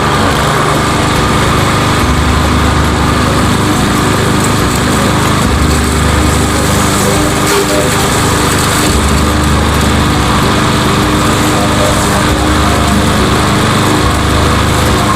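Walk-behind lawn mower's single-cylinder PowerMore 140cc engine running steadily under load while cutting grass, its auto choke now working so it keeps running instead of dying.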